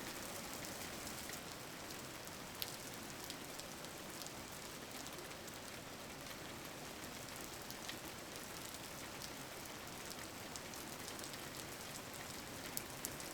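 Steady rain falling and pattering on a surface, an even hiss with scattered light drop ticks.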